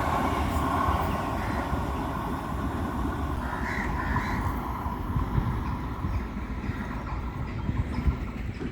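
Passenger train running through the station with a steady low rumble that slowly fades, and a bird calling a few times about three and a half seconds in.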